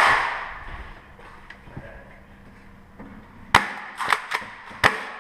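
Foam-dart blaster play: a loud hiss-like burst at the start that fades over about a second, then a quick string of six sharp clacks near the end, like blaster shots and darts striking hard surfaces.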